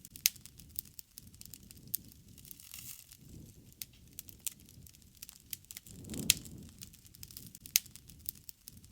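Campfire crackling: scattered sharp pops and snaps over a soft low rush of burning flames that swells now and then, with the loudest pops near the start and about six seconds in.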